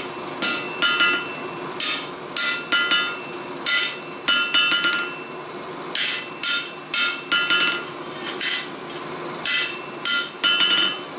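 Hammer blows on a hot steel cutlass blade on an anvil, forging the tip profile: irregular strikes, roughly one to two a second and sometimes in quick pairs, each with a short metallic ring. A steady rushing noise runs underneath.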